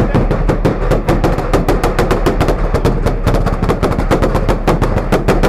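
Car exhaust popping and banging on a two-step launch limiter: a rapid, even string of sharp bangs, several a second, over the engine's low rumble.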